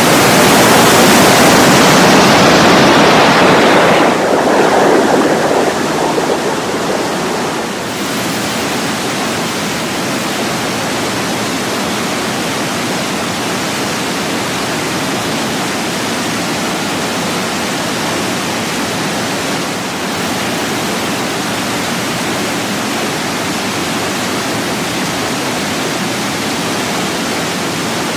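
Waterfall pouring: a steady rush of falling water, louder and brighter for the first few seconds, then even.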